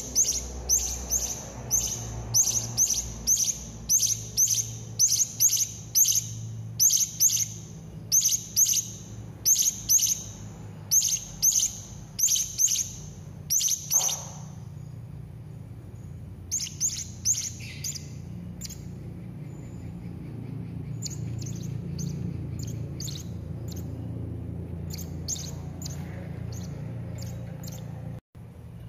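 Serindit (hanging parrot) calling: a fast run of short, shrill, high chirps at about two a second. About halfway through they thin out into sparser, fainter calls, over a low steady hum.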